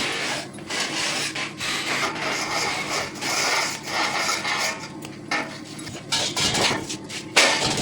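Rasping, rubbing strokes on stainless steel, as from filing or hand sanding the workpiece. The strokes come in uneven bursts with short breaks.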